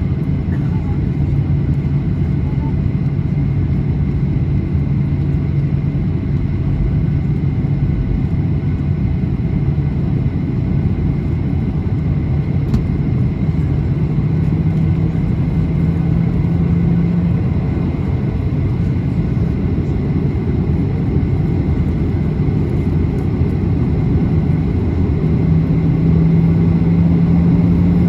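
Steady low rumble inside a Boeing 737-800's passenger cabin on the ground, with a steady hum that steps up in pitch about halfway through and again near the end.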